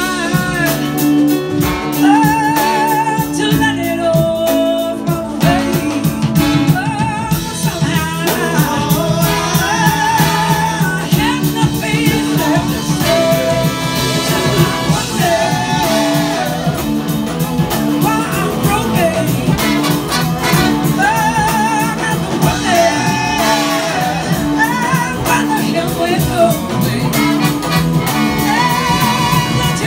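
Live blues-rock band playing an instrumental passage: a lead electric guitar melody with wide vibrato over bass, keyboards and drums.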